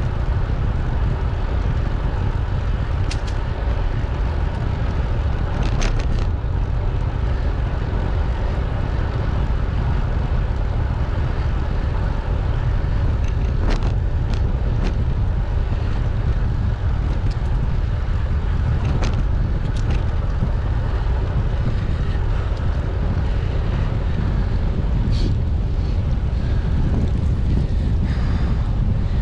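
Steady wind rumble on the microphone of a moving bicycle, with road and tyre noise beneath it and a few short sharp clicks scattered through.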